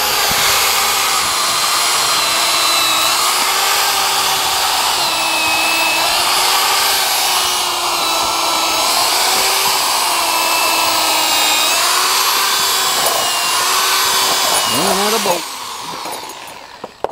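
Electric power drill running under load for about fifteen seconds, its motor pitch wavering as the load changes, then winding down near the end.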